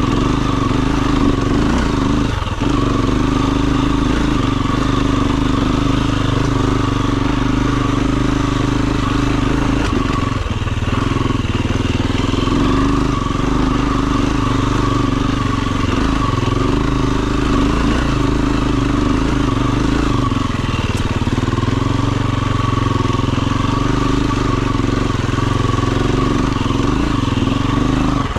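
Dirt bike engine running at fairly steady revs throughout, with a couple of brief knocks, one about two and a half seconds in and one around ten seconds.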